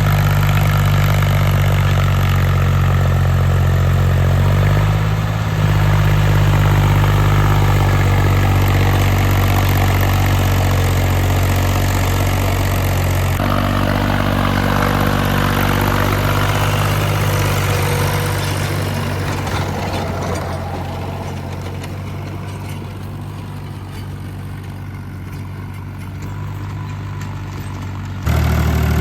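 Tractor diesel engine running steadily with a low hum. It shifts a little in pitch a few times, grows quieter over the last third, and jumps back to full loudness abruptly near the end.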